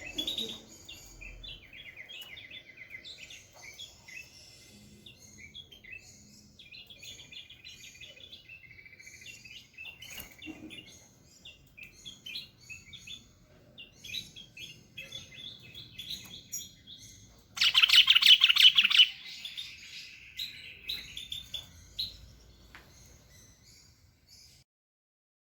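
Bulbul singing: a steady run of varied chirps and whistles, with a much louder rapid trill about two-thirds of the way through. The song cuts off about a second before the end.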